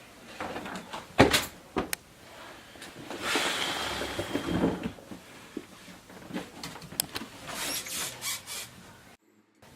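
Handling noises: several sharp clicks and knocks, a hissing rush lasting about a second and a half about three seconds in, then more clicking, cut off abruptly near the end.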